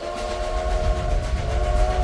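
Steam train whistle blowing a held chord, breaking off briefly about a second and a half in and sounding again, over the fast, even chugging and rumble of a locomotive.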